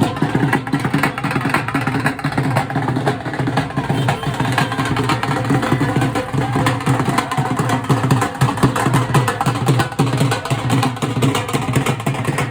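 Loud, fast drumming, with dense strokes running on without a break.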